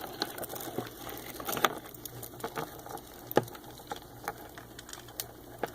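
Hermit crabs' shells clicking and tapping against each other and the enclosure as the crabs clamber about: scattered small ticks with a few sharper knocks, over a faint steady low hum.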